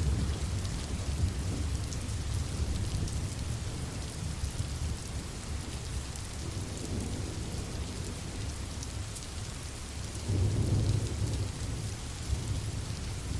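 Steady heavy rain with fine drop patter and low rolling thunder underneath; a louder rumble of thunder swells about ten seconds in.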